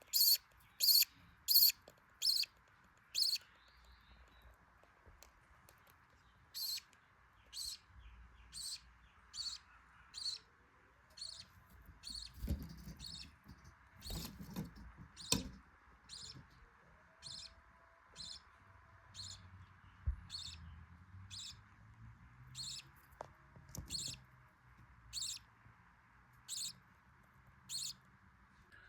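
Budgerigars chirping: a long run of short, high cheeps, about one to two a second, loudest at the start, over a faint steady hiss.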